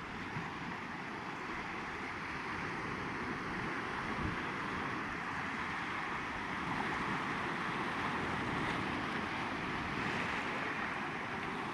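Steady rushing of sea and wind, with wind buffeting the microphone, swelling a little about a third of the way in.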